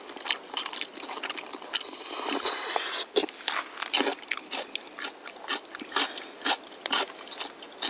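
Close-up eating sounds of jajangmyeon: chewing and crunching, with many short, irregular sharp clicks and a denser stretch about two to three seconds in.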